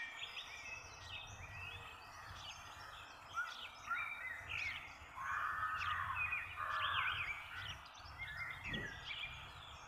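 A chorus of birds chirping and calling, many short notes rising and falling in pitch, with a couple of harsher, longer calls a little past halfway.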